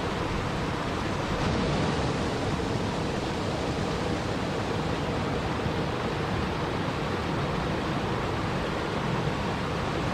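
Steady, even rushing of water, with no distinct drops, splashes or other events.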